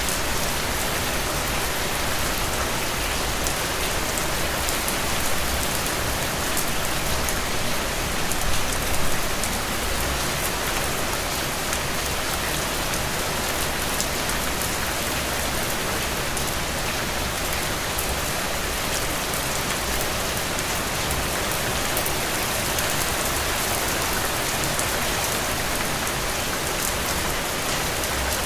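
Heavy, steady rain falling on the ground and soaking into puddles, a dense even hiss with countless small drop patters, swelling slightly about eight seconds in.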